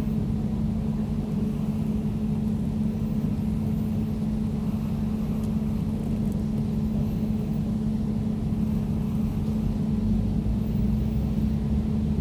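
Air conditioner running steadily: a constant low hum under an even rush of air noise.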